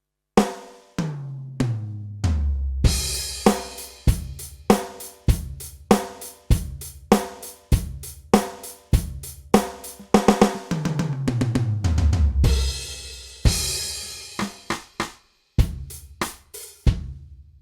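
Yamaha DTX720K electronic drum kit (DTX700-series module) playing a demo pattern: a tom fill stepping down in pitch into a crash, then a steady kick, snare and hi-hat groove. About ten seconds in comes a second descending tom fill into a crash, and the hits stop just before the end.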